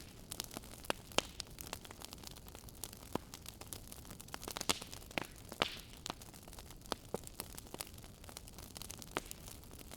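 Fireplace fire crackling: irregular small snaps over a soft hiss, with a few louder pops near the middle.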